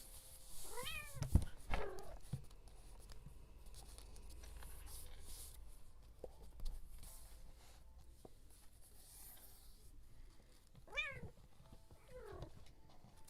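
Two pairs of short calls from an animal's voice, each rising and then falling in pitch: one pair about a second in, the other about eleven seconds in.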